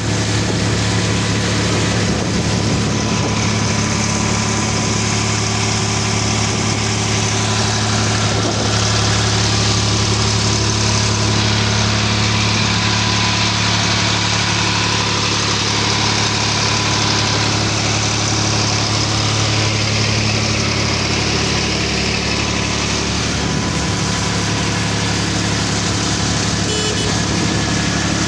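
Tractor engine running steadily at a constant speed, driving a PTO water pump.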